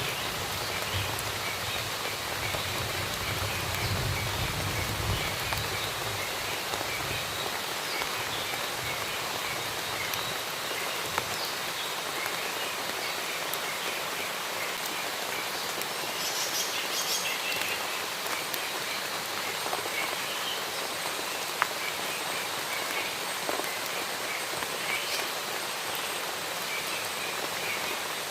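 Steady rain falling in a forest, with birds chirping faintly through it and a short burst of higher calls about halfway. A low rumble fades out within the first several seconds, and two single sharp drip-like clicks stand out.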